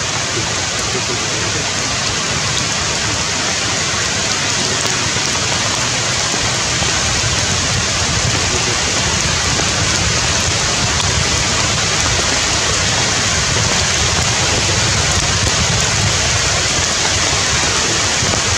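Steady rain falling on tree foliage: a dense, even hiss that grows a little louder about seven seconds in.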